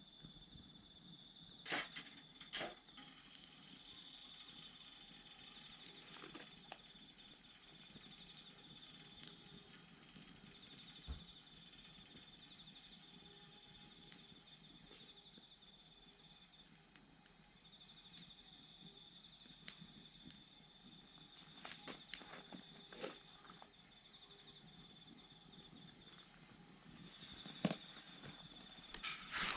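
A steady chorus of autumn insects, crickets among them, chirping in several high-pitched bands. A wood campfire crackles now and then, with a few sharper pops near the end.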